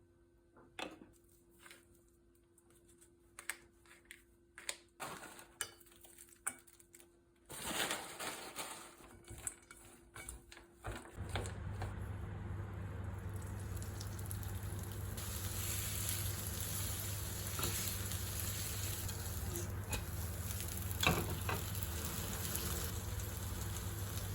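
Kitchen cooking sounds: scattered clinks and knocks of dishes and utensils, then from about a third of the way in a steady sizzle of food frying in a pan, with an occasional utensil clink.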